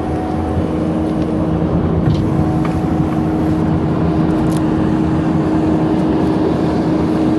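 Heavy diesel engine running steadily, a low rumble with a steady hum over it, getting a little louder about two seconds in.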